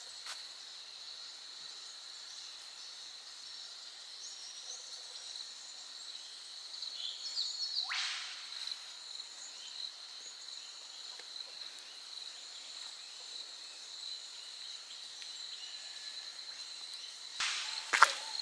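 Steady high-pitched insect drone from the bush, with a brief bird call about halfway through and a few footsteps near the end.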